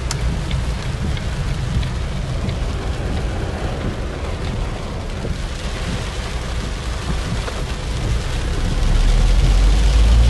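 Steady rain falling, with a low rumble that swells louder near the end.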